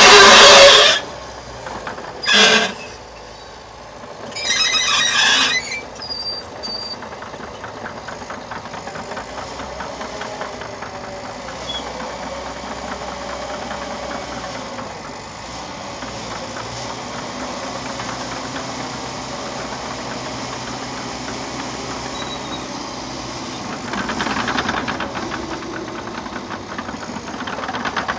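Liebherr PR 726 crawler dozer working, its diesel engine running under the steady clatter of its steel tracks. Three loud, short bursts come in the first six seconds, the first the loudest. The sound swells a little near the end.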